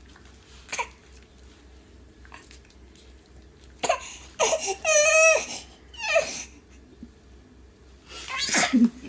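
Short wavering cries or whimpers: a few brief cries about four seconds in, one longer wobbling cry around the middle, and another near the end.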